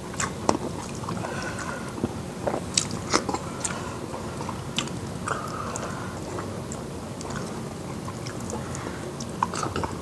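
Mouth sounds of people eating fufu and soup by hand: chewing, with scattered short wet clicks and smacks.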